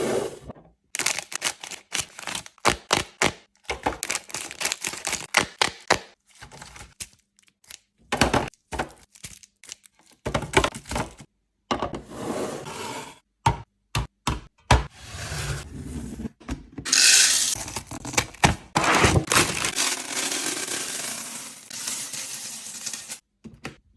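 Food containers, bottles and packages being handled and set down while restocking a refrigerator: irregular clicks, knocks and clunks, with stretches of steady rustling noise, the loudest about seventeen seconds in.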